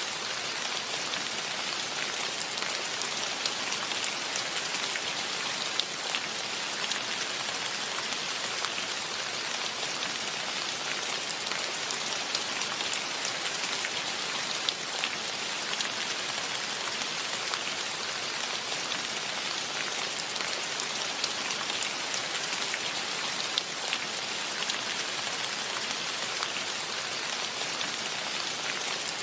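Steady rain falling, a dense hiss of countless drops with fine close patters on surfaces.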